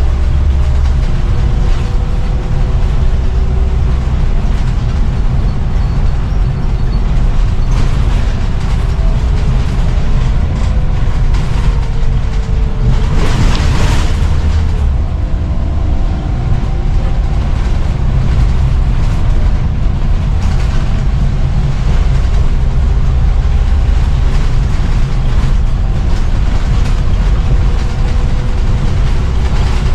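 Scania CN94UB Omnicity bus running under way: a deep engine rumble with drivetrain whines that rise and fall in pitch as the bus changes speed. A short hiss comes about thirteen seconds in.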